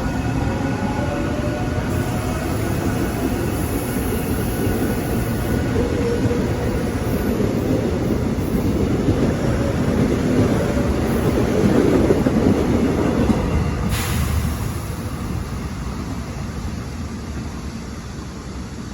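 Subway train running past on its rails, a dense rumble that builds to its loudest about two-thirds of the way through and then fades away, with a sharp click about three-quarters of the way through. A faint motor whine slides in pitch during the first few seconds.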